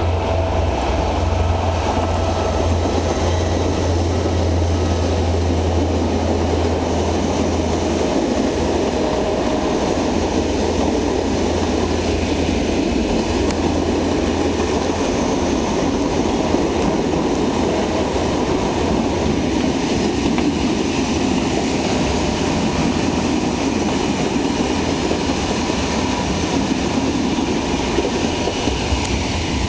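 A train running on the track: a steady rumble with no clear rhythm, and a strong low hum for about the first eight seconds.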